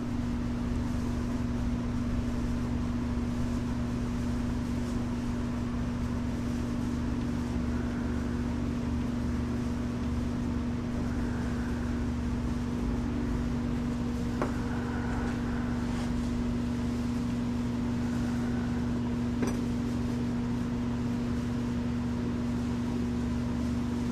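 A steady machine hum with a strong low tone, like a running fan or air-conditioning unit, with a few faint light clicks in the second half.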